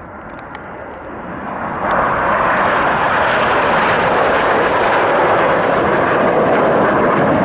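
Jet noise from the Red Arrows' BAE Hawk T1 jets flying past, growing sharply louder about two seconds in and then holding as a steady roar.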